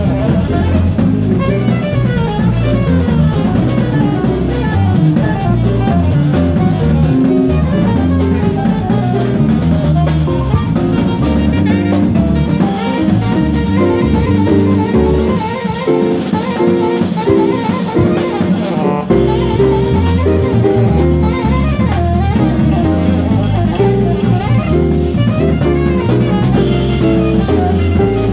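Live small-group jazz: a bass playing a moving line of low notes under a drum kit, with a saxophone on top. The lowest bass notes drop away for a few seconds around the middle before coming back in.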